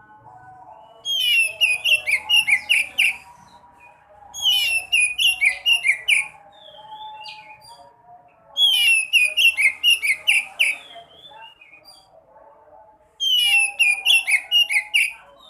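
Sekoci (Bengalese finch) song: four loud bursts of rapid, high chirping notes, each about two seconds long, with short gaps between them. A softer, lower warbling runs underneath throughout.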